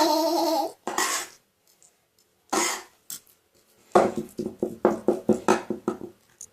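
A pitch-shifted voice: one held sound at the start, then a quick run of short pulses from about four seconds in.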